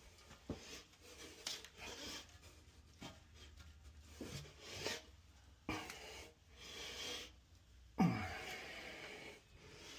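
Irregular scraping and rubbing with scattered knocks, the sharpest knock about eight seconds in.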